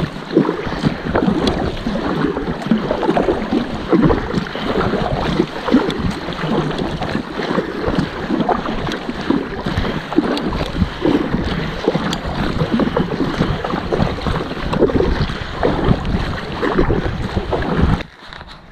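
Water sloshing and splashing around a kayak on a lake, in an irregular choppy pattern, with wind buffeting the microphone. The sound drops away abruptly near the end.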